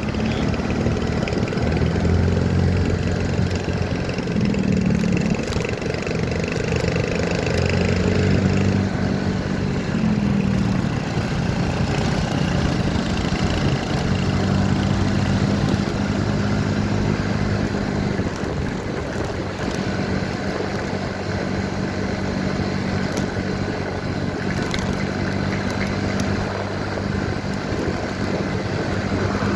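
Motorcycle engine running while riding, its pitch stepping up and down with the throttle a few times in the first ten seconds, then holding steady.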